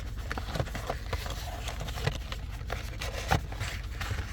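A cardboard trading-card blaster box being handled and opened, making scattered scrapes, taps and crinkles. A steady low hum runs underneath in the truck cab.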